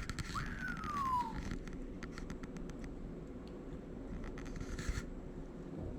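A squirrel gnawing at the shell of a large nut: rapid, scratchy clicks and scrapes. About half a second in there is a short whistle that falls in pitch.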